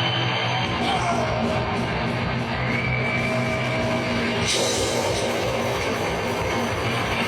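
Live heavy metal band playing loud, with distorted electric guitars and fast drumming.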